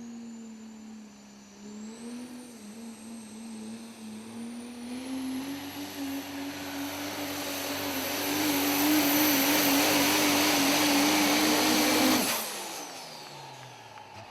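Super stock diesel pulling truck under full power: a high turbo whine climbs and the engine note rises as the sound builds louder, then about twelve seconds in it cuts off suddenly and the turbo whine falls away as the driver lifts at the end of the pull.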